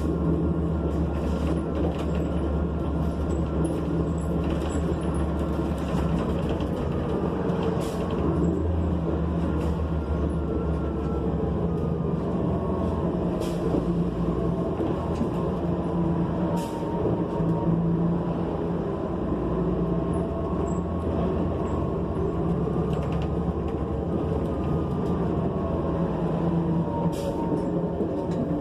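Interior ride sound of a New Flyer XN40 bus with a Cummins Westport ISL G natural-gas engine and Allison B400R automatic transmission: a steady low drone whose pitch slowly rises and falls as the bus drives, with a few brief clicks and rattles.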